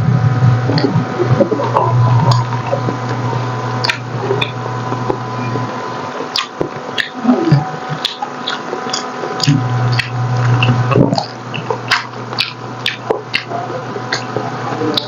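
A person chewing soft, tender braised pork hock (paksiw na pata), with many short, irregular clicks of the mouth and food.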